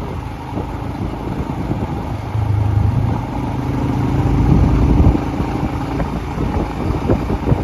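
Motorcycle engine running on the move, with a low rumble of wind on the microphone; an engine note swells louder from about two and a half seconds in, then eases off around five seconds.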